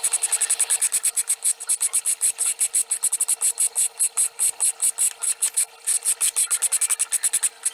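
Hand file rasping across a steel knife blade's bevel in rapid, even strokes, several a second, with one brief pause about two-thirds through.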